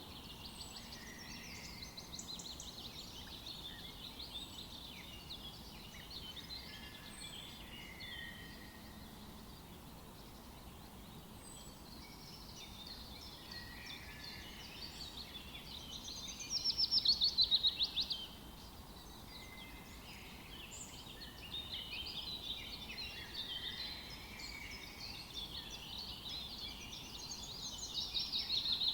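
Several songbirds chirping and singing over one another, with a loud, fast trill about two-thirds of the way in and another near the end.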